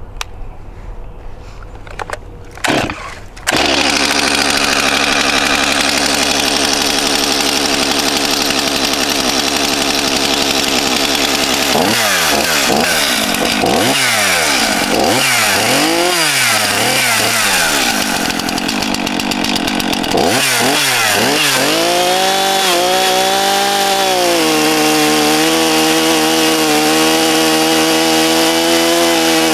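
Stihl MS 241 two-stroke chainsaw firing up about three seconds in and running, its engine speed swinging up and down several times as the throttle is blipped, then climbing and holding at full throttle near the end.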